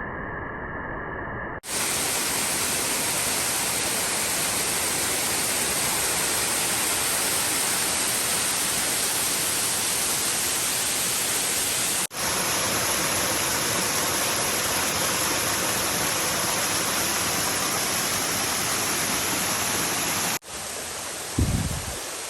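A small waterfall, running high after rain, giving a steady full rushing hiss. It breaks off abruptly and resumes at a slightly different tone twice as clips change, and there is a brief low thump near the end.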